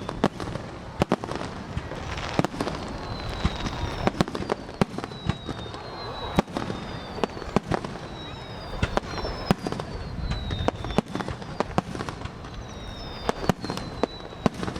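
Aerial fireworks bursting in a rapid, irregular string of sharp bangs and crackles, with several short high whistles that fall in pitch.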